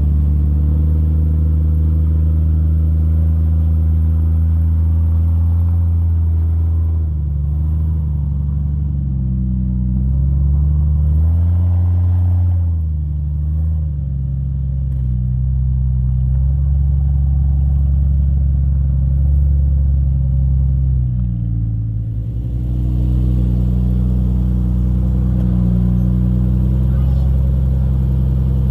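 Jeep Cherokee XJ engine running at low crawling speed, its pitch rising and falling with the throttle, with a rise about ten to thirteen seconds in and a brief dip around twenty-two seconds.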